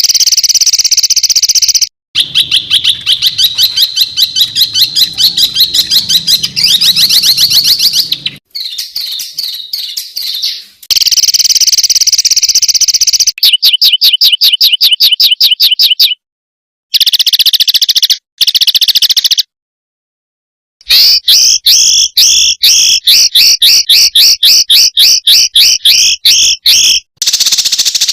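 Spliced recordings of small songbirds giving rapid, harsh repeated calls, the 'tembakan' used as masteran tutor song for caged birds. Fast trains of sharp high notes alternate with stretches of continuous high trill, and the clips change abruptly with brief silent gaps between them.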